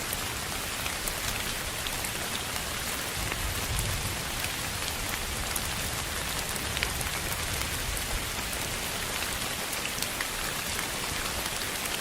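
Steady rain: an even hiss with many small droplet ticks scattered through it, played as a sleep noise track.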